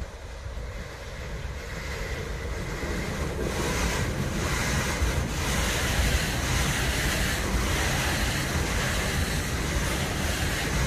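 Freight train of container wagons hauled by an electric locomotive, rolling past close by. The rumble of wheels on rails grows louder over the first few seconds as it comes near. It then holds as a steady rolling noise with a few short clacks as the wagons go by.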